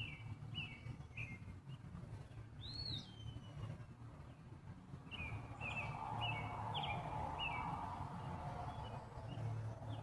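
Birds chirping in the background: runs of short, high chirps, with one longer whistled note about three seconds in, over a faint low rumble.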